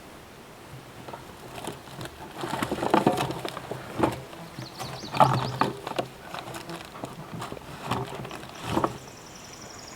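Food packages being handled, with irregular rustling and knocks as items are picked up and moved.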